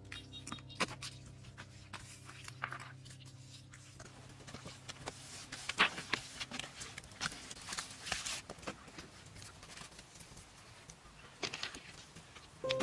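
Faint background music that drops out after about four seconds, then irregular scraping and clicking of hand work.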